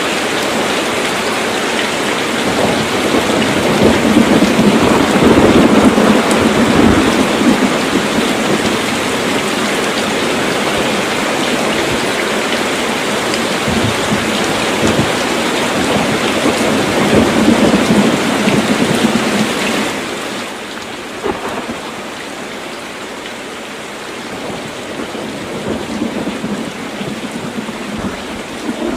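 Heavy rain falling steadily, with rolling thunder swelling up twice, about five seconds in and again around seventeen seconds in. After about twenty seconds the rain turns quieter.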